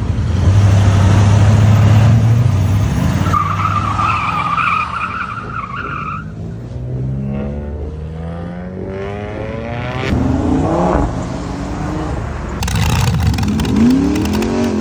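Car engines revving and accelerating, their pitch rising and falling several times as cars pull away and go by. A high steady squeal runs for about two seconds a few seconds in.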